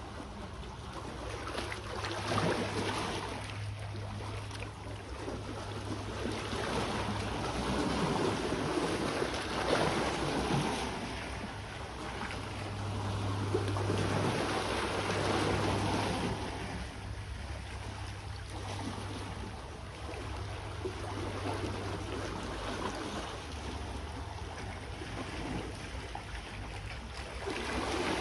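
Sea waves washing onto the shore, swelling and fading every few seconds, over a steady low hum.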